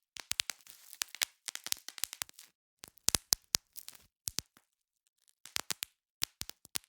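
Bubble wrap being popped: irregular clusters of sharp snapping pops, several a second, with a short pause of about a second near the middle.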